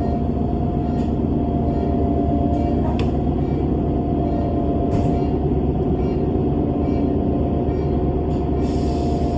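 Bus running with a steady low engine rumble and a constant whine. A few faint ticks or rattles come through, and there is a brief hiss near the end.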